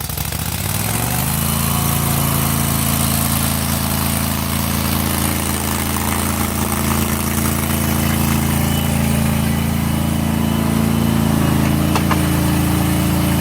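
Tractor engine running just after starting: its speed climbs over the first second or so, then settles into a steady run, picking up slightly near the end.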